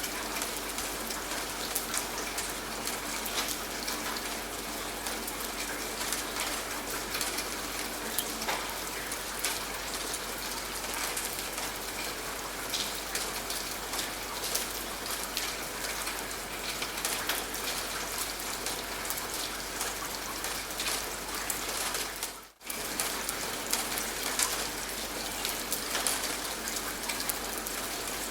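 Steady rain, with many individual drops ticking on a surface. The sound drops out for a split second about three-quarters of the way through, then carries on.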